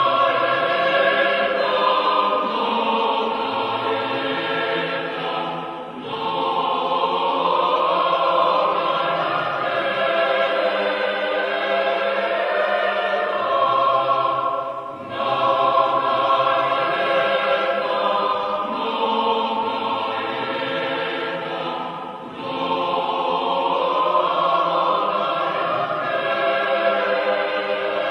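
Choral music: a choir singing long held chords in slow phrases, with short breaks between phrases about 6, 15 and 22 seconds in.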